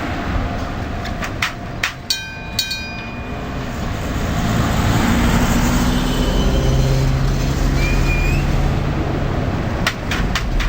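Freight train rolling over a level crossing on a siding, with a steady rumble. Its wheels clack over the rail joints a couple of seconds in and again near the end. A brief high wheel squeal comes about 8 seconds in.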